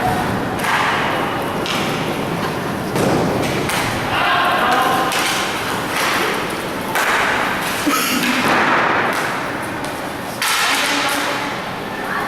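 Inline hockey play: repeated thuds and knocks of puck, sticks and players against the rink boards, several sudden and loud, over steady rink noise, with faint shouts of players.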